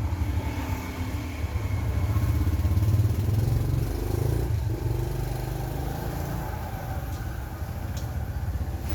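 An engine running steadily with a low hum, its pitch rising briefly about four seconds in.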